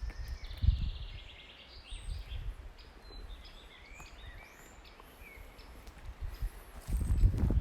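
Forest birds singing: a quick trill of rapid repeated notes near the start, then short whistled and slurred calls. Low thuds sound underneath, growing heavier near the end.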